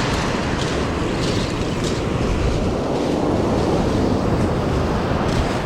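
Steady roar of ocean surf breaking on the beach, mixed with wind buffeting the microphone, with a few faint clicks.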